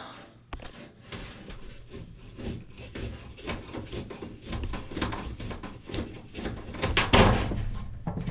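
Irregular knocks, clicks and scrapes of hand work on a washing machine's metal pedestal drawer as its fastening nuts are worked loose, getting louder and busier near the end.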